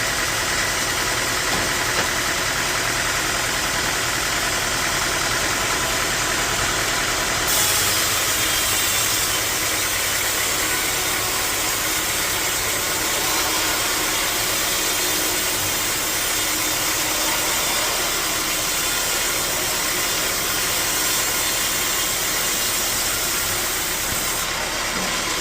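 Bandsaw sawmill running steadily with a loud mechanical drone. About seven seconds in a brighter hiss joins it and lasts until shortly before the end.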